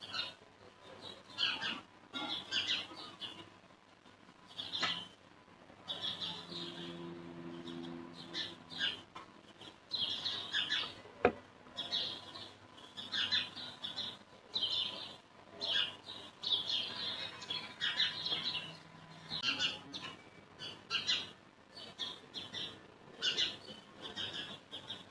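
Birds chirping repeatedly in short, high calls, one or two a second. A low steady hum comes in for a few seconds about six seconds in and again near the end, and there is one sharp click about eleven seconds in.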